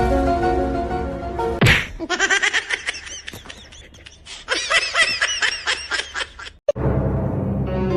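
Background music, cut off by a sudden hit, followed by several seconds of rapid, high-pitched laughter before music starts again near the end.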